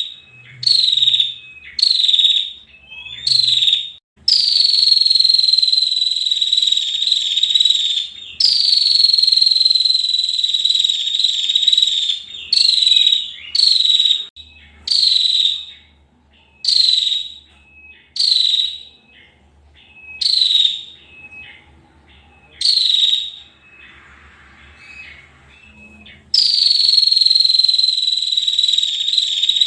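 Female prinia (prenjak) giving dry, buzzing trill calls: several long trills of about four seconds each that sink slightly in pitch, with short bursts of under a second roughly every two seconds in between.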